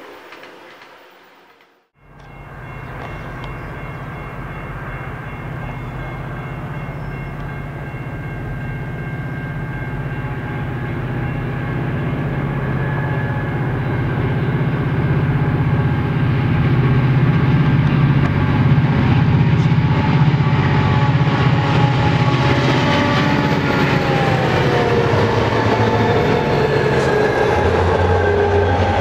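Rocky Mountaineer passenger train's diesel locomotives approaching and passing, starting about two seconds in. Their steady drone grows louder and its pitch falls as they go by, followed by the rolling rumble of the passenger coaches.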